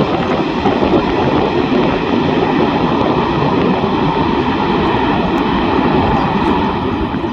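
Boeing 737-200's Pratt & Whitney JT8D turbofans and rushing air during a landing: loud, steady jet noise with faint high steady whine tones over it, easing slightly near the end.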